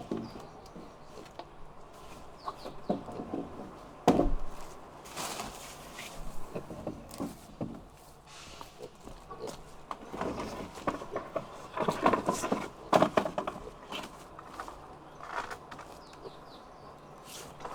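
Chickens clucking on and off, with a sharp knock about four seconds in.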